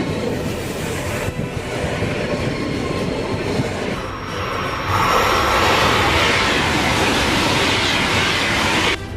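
High-speed train running on the rails with a steady rumble. From about halfway it becomes a louder rushing noise, which cuts off abruptly near the end.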